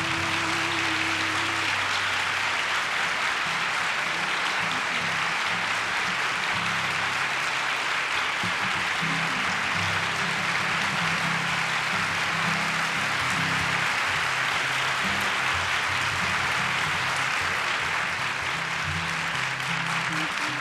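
Audience applauding steadily at the end of the song, with low guitar notes still playing beneath it; a held final note of the song dies away in the first couple of seconds.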